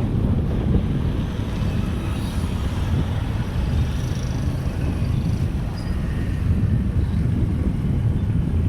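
Motorcycle running steadily while riding, with wind rumbling on the microphone.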